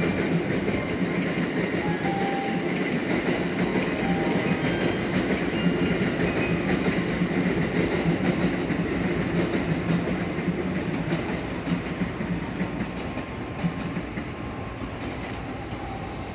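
N700S Shinkansen train at a station platform, giving a steady low rumble of train noise that grows quieter over the last few seconds.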